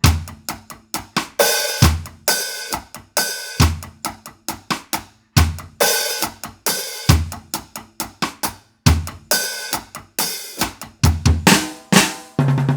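Drum kit playing a one-drop reggae groove: a steady hi-hat pattern with snare and bass drum, the bass drum landing about every second and three-quarters. A low ringing drum hit comes near the end.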